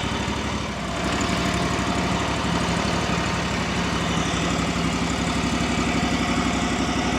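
A vehicle's engine running steadily at constant speed, a continuous drone with an even firing pulse.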